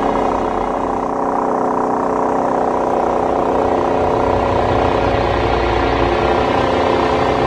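Motor of a narrow river torpedo boat running steadily under way, a constant engine drone with a slight dip in the upper tones about a second in.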